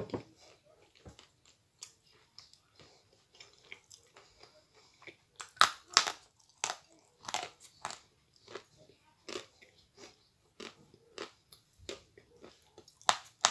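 A person biting and chewing crunchy white pieces close to the microphone. Soft chewing crunches throughout, with a run of loud, sharp bites about halfway through and another loud crunch near the end.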